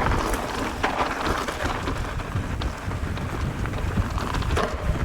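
Mountain bike rolling along a dirt trail: steady tyre crunch with scattered small clicks and rattles, over low wind buffeting on the microphone.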